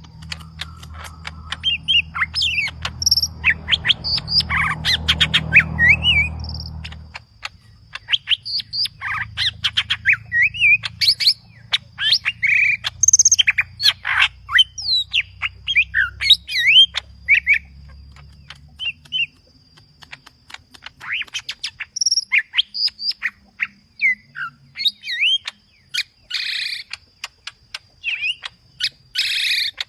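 Cucak ijo (green leafbird) singing energetically in a rapid, varied string of chirps, whistled glides and harsh squawky notes. The song is full of mimicked phrases, what keepers call 'full isian'.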